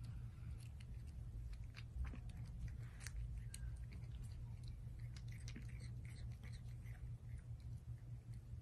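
Cat licking and chewing at the tip of an oral feeding syringe: a faint, irregular run of small wet mouth clicks and smacks over a low steady hum.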